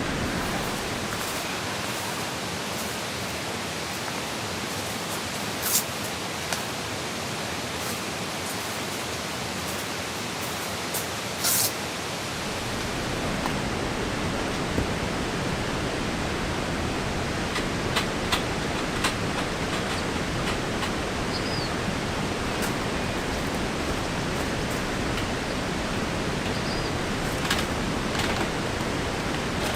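Steady hiss of rain falling, with a few sharp taps scattered through it; the rain sound grows fuller and deeper about twelve seconds in.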